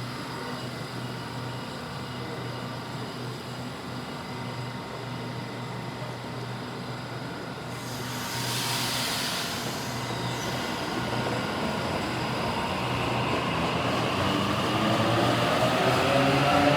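Electric commuter train whose traction motors give a whine of several tones, rising in pitch and growing louder over the last several seconds as it accelerates. A brief hiss about eight seconds in.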